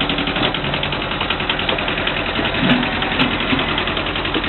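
Farm tractor engine running with a steady rapid beat, its note changing about half a second in; two short knocks near the middle.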